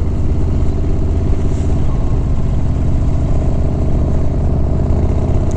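Harley-Davidson Softail Sport Glide's V-twin engine running steadily at highway cruising speed, mixed with road and wind noise.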